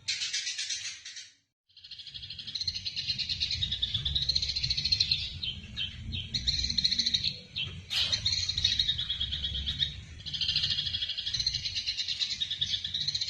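Eurasian tree sparrows chattering in fast, dense runs of chirps, the agitated calls of sparrows fighting. The chatter breaks off briefly about a second in, then runs on almost without pause over a low background rumble.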